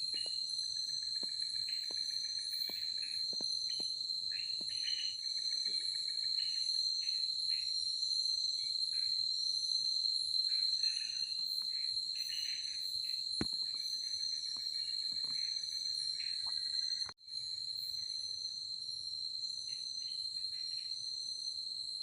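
Forest insects calling: a continuous high, shrill trill with faster pulsing calls above it, and intermittent trains of lower chirps. The sound cuts out for a moment about 17 seconds in, then the chorus carries on.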